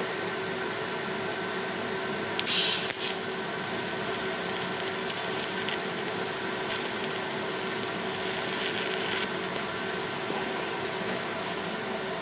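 Welder humming steadily while short tack welds are struck on a motorcycle frame bracket, each a brief crackling hiss. The longest comes about two and a half seconds in, with a few shorter ones later.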